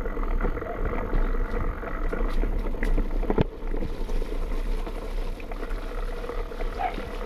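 Mountain bike riding down a rough trail: tyres rumbling over dirt and rocks, the bike rattling with many small knocks and one sharp clack about three and a half seconds in, with wind on the microphone.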